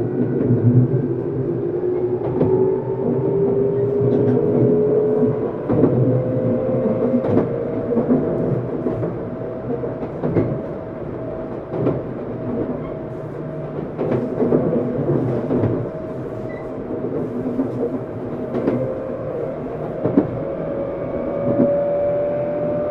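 Inside a Tokyu 7700-series motor car under way: the traction motor whine climbs in pitch as the train accelerates over the first several seconds, then holds steady and climbs again near the end. Under it runs the wheel-and-rail rumble, with scattered clacks from rail joints.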